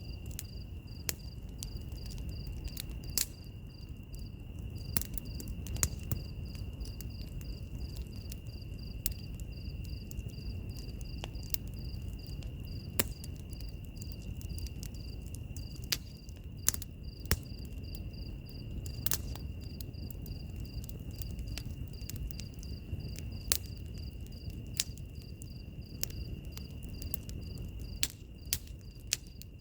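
Wood fire crackling, with scattered sharp pops and snaps over a low rumble. Under it, insects chirp continuously: one steady high trill and a faster, evenly pulsed chirping.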